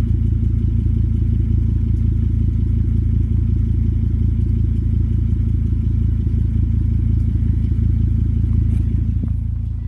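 Turbocharged inline-five engine of a 2006 Volvo S60 T5 idling through an IPD cat-back exhaust during a cold start, a steady deep exhaust rumble. The level eases off slightly near the end.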